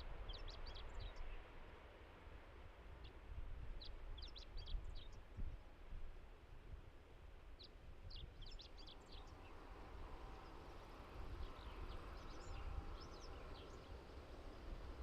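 A small songbird sings short, quick phrases of high chirps, four times a few seconds apart, over a low, uneven rumble. A faint steady hum builds in the second half.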